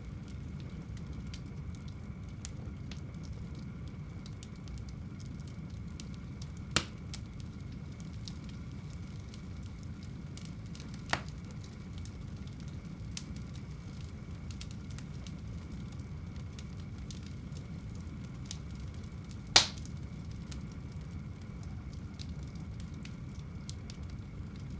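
Wood fire burning in a home fireplace: a steady low rumble with faint crackles throughout and three sharper pops of the burning wood, the loudest about three quarters of the way through.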